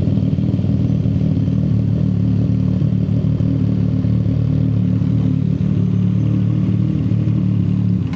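CFMoto 675 SR-R's three-cylinder engine idling steadily through an aftermarket shorty exhaust, its pitch holding even with no revving.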